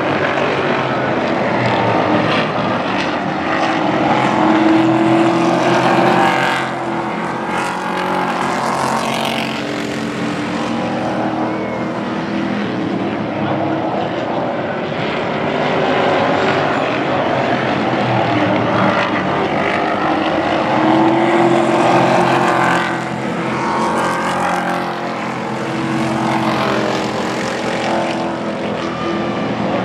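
Pro Truck race trucks' engines running at racing speed around an oval, the sound swelling as the field passes close by about five seconds in and again about twenty-two seconds in.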